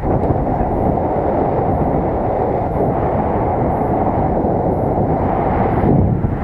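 Wind rushing over the microphone during a paraglider flight: a steady, loud, low rumble.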